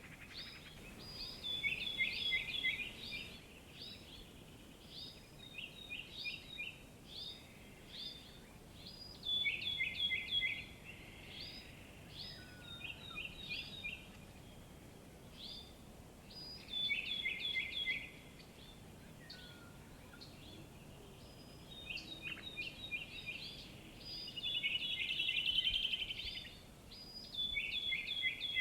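Songbirds singing: short phrases of quick, high, downward-slurred notes repeat every few seconds, with scattered single chirps between them and a faster trill about 25 seconds in.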